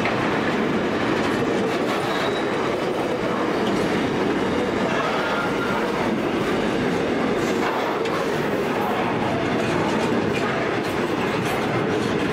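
Intermodal container wagons of a freight train rolling past: a steady rumble of steel wheels on the rails, with a few scattered clicks over rail joints.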